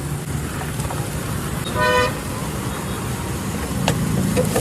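A short horn toot about two seconds in, over a steady low background rumble.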